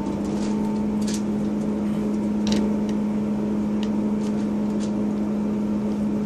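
Class 158 diesel multiple unit's engine and transmission running with a steady drone at an even pitch, with a few faint clicks over it.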